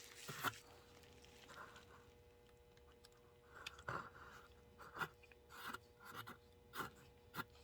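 Faint, scattered small scrapes and clicks of a screwdriver working at the screws of a plastic HO-scale model locomotive, over a steady faint hum.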